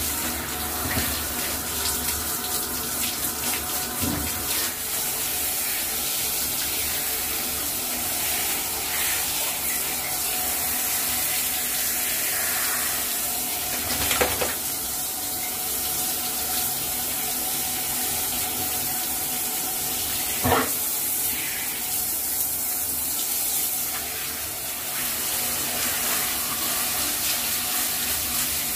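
Steady running water during a dog's bath, with a few short knocks partway through.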